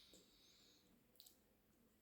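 Near silence: room tone with a faint hiss and two faint clicks a little past a second in.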